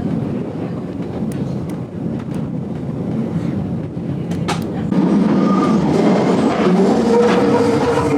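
GoldenPass Belle Époque train running along the rails, heard from inside the carriage: a steady rumble with scattered clicks. About five seconds in it grows louder and steady high tones join in.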